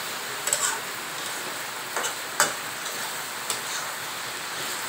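Dry fish and potato bhuna sizzling in oil in a metal kadai, being fried down dry, while a metal spatula stirs it and clicks against the pan a few times, loudest about two and a half seconds in.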